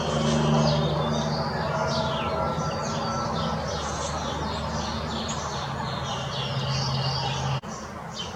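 Small songbirds chirping and twittering in quick, overlapping calls, over a steady low hum that cuts off suddenly near the end.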